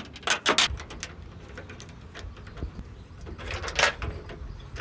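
Old rusty tailgate chain on a Honda ACTY kei truck clinking and rattling as it is worked loose and removed. A few sharp metal clinks come in the first second, and a quick cluster of them comes near the end.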